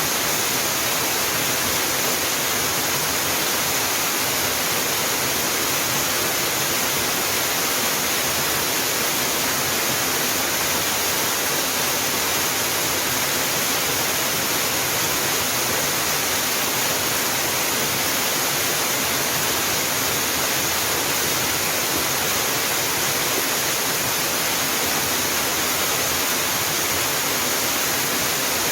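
Mountain waterfall: water pouring and splashing in a steady, unbroken rush.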